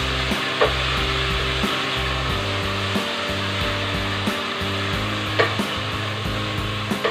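Food frying and sizzling in a pan on a gas stove as it is stirred with a wooden spatula. A couple of sharp knocks of the spatula against the pan come about half a second and five seconds in.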